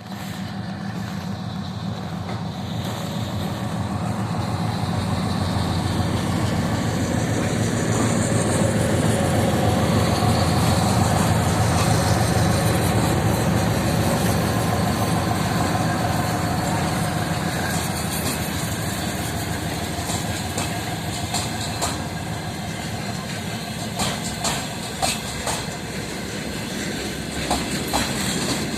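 2TE10M twin-section diesel locomotive, its 10D100 two-stroke diesels running steadily under load as it pulls away with a freight train. The engine sound builds for about ten seconds, then eases. From about twenty seconds in, wagon wheels clack and knock over rail joints.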